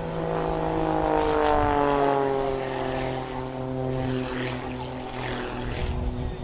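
Jet-assisted Pitts Special aerobatic biplane flying past, its propeller engine note dropping in pitch as it passes, loudest a second or two in, then running on steadily as it moves away.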